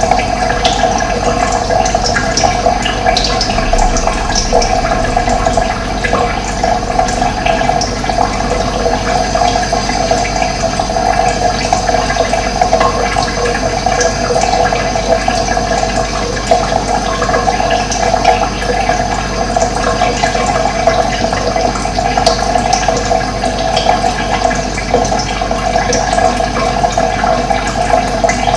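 Steady rush of running water, with faint short bird chirps scattered over it.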